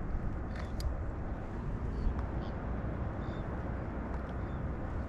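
Wind buffeting the microphone as a steady low rumble, with a few faint small clicks and ticks over it.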